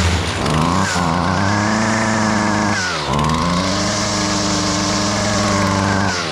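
Husqvarna 128LD string trimmer's 28cc two-stroke engine revving up to high speed twice, dropping back briefly about three seconds in and again near the end. It is running with its completely blocked spark arrester screen removed, and now revs up freely.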